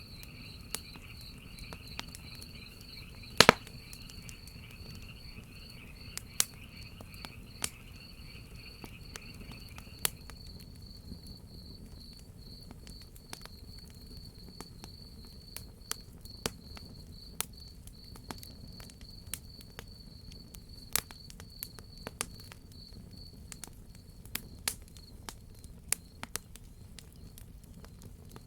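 Wood fire crackling with scattered sharp pops, the loudest about three and a half seconds in, under a steady low rumble. Crickets chirp in a high, even, pulsing trill throughout, and a second, lower chirring chorus stops about a third of the way through.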